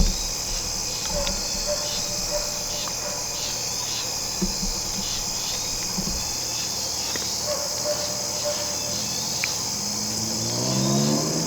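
Steady chorus of crickets and other insects, a high constant trill with a pulsing call repeating about twice a second. Near the end a low rising hum comes in briefly.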